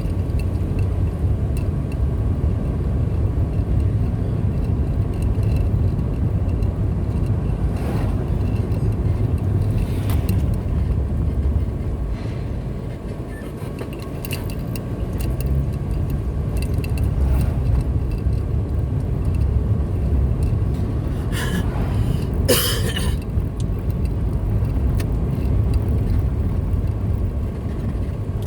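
Car driving along a road: a steady low rumble of engine and tyres that eases briefly around the middle, with a few light clicks and rattles and a short, sharper noise about 22 seconds in.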